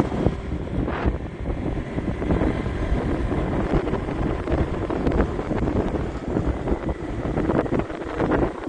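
Wind buffeting the microphone of a moving motorbike, over the running noise of the bike.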